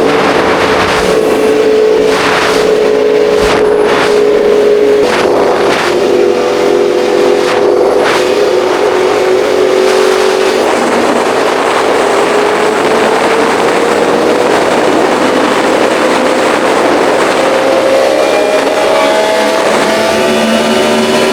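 Kawasaki ZX-10R sportbike's inline-four engine running at speed under a steady rush of wind. There are several short bursts of noise in the first part, then the engine pitch climbs slowly and drops back near the end.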